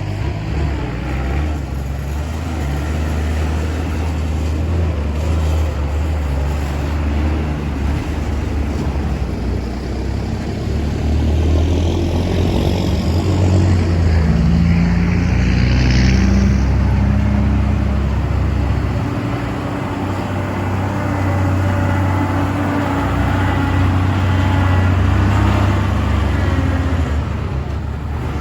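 Heavy diesel ten-wheel dump trucks driving past, their engine rumble swelling and fading as each passes, with a short hiss about halfway through.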